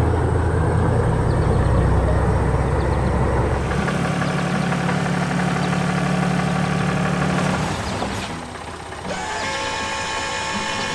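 Engine running with a steady low drone, changing in pitch about four seconds in and easing off near eight seconds.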